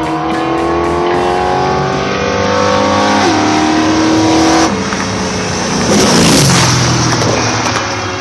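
A car engine accelerating hard at full throttle, its pitch climbing steadily, dropping abruptly at an upshift about three seconds in, then climbing again. A loud rushing burst of noise follows around six seconds in. Rock music plays underneath.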